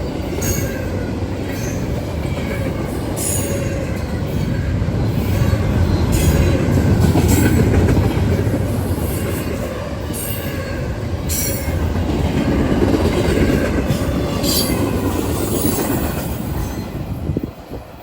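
Freight train cars rolling past: a steady rumble of wheels on rail with repeated short, high wheel squeals. The sound drops away sharply near the end.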